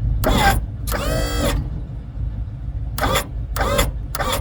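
A 1984 tow truck's engine idling, a steady low rumble, with several short voice-like sounds over it.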